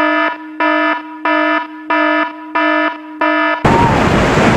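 Electronic alarm beeping, about one and a half pulsed beeps a second over a steady tone. Near the end it cuts off suddenly to loud rushing river water and wind noise on the microphone.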